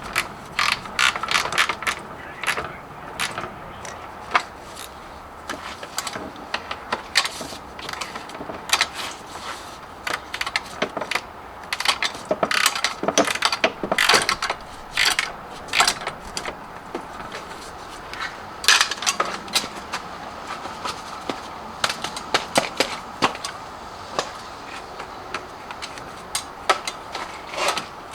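Hand socket ratchet wrench clicking in short, irregular runs, with scattered metallic clicks and knocks as bolts are worked on a car starter.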